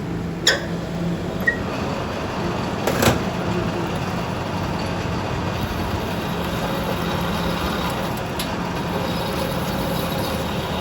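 Steady running machinery with a low hum, broken by a few sharp knocks: one about half a second in, one at about three seconds, and a fainter one a little past eight seconds.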